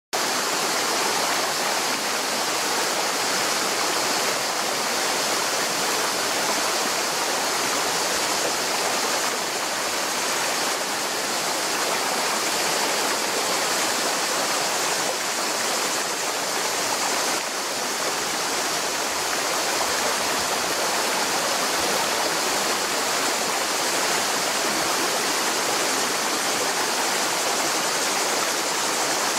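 Mountain river water rushing steadily over rocks, a constant, even flow.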